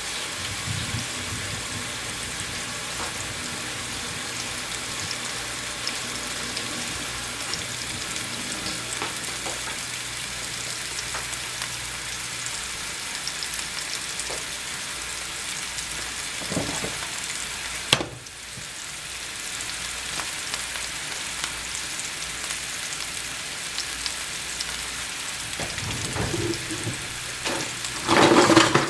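Chuck roast searing in hot olive oil in a skillet: steady sizzling. A sharp click about two-thirds of the way through, and a few louder knocks near the end.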